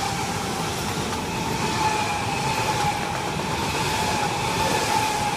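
Eurostar class 374 high-speed train running through the station on the main line: a steady loud rush of train noise with a constant whine.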